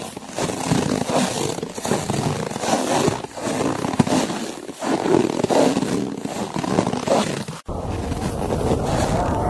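Footsteps crunching in snow, an uneven run of scraping crunches. About three-quarters of the way through it cuts off abruptly and gives way to a steadier rush of blizzard wind.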